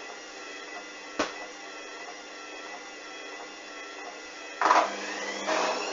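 Hoover washing machine's drum motor humming steadily as it turns the load, with a single click about a second in. Near the end there is a whoosh and the motor whine starts to rise in pitch as the drum speeds up into a spin after repeated attempts to balance the load.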